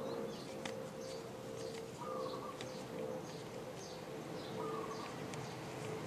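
Background birds calling: a short call repeating about every two and a half seconds, with small high chirps in between.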